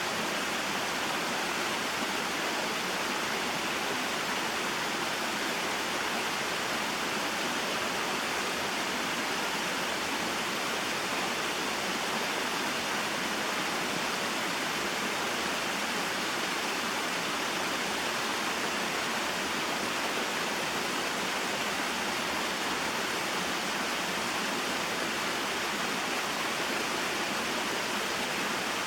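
Small mountain waterfall and stream: a steady, even rush of flowing water, mostly hiss, with no change throughout.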